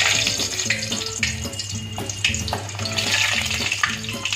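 Small peeled onions dropped into hot ghee in an aluminium kadhai, sizzling and spitting as they start to fry. The sizzle starts suddenly and swells and fades in waves.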